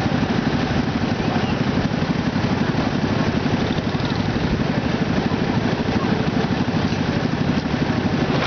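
Small garden tractor engine running steadily, with fast, even firing pulses.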